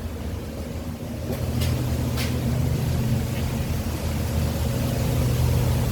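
Truck engine idling: a steady low hum that grows louder about a second in, with three light clicks soon after.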